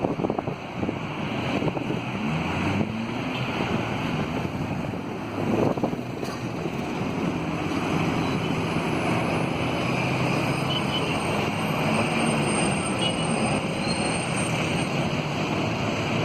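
Steady road traffic noise with wind on the microphone, with faint rising and falling whines in it.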